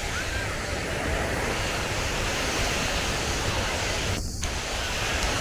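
Ocean surf breaking on the beach, a steady wash of noise, with wind rumbling on the microphone.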